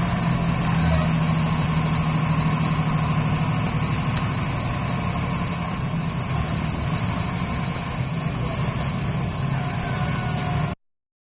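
A motor vehicle's engine running steadily with a low, even hum. It cuts off suddenly near the end.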